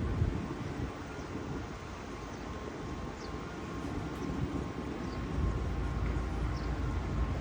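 Steady low rumble and hiss of urban background noise, growing louder about five seconds in.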